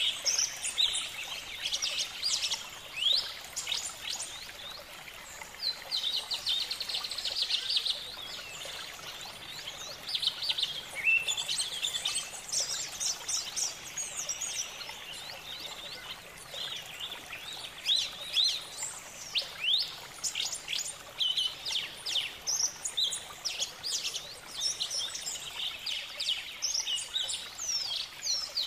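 Birds chirping and trilling: many short, high-pitched notes, quick downward sweeps and rapid trills, overlapping over a steady background hiss.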